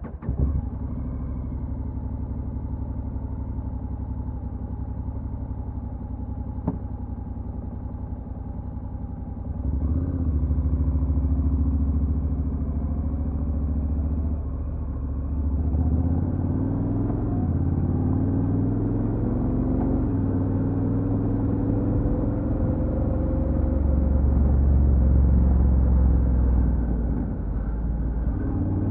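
Honda NC750X motorcycle's parallel-twin engine running steadily at a low level for about ten seconds, then louder as the bike pulls away, its pitch rising under acceleration and dropping briefly at gear changes.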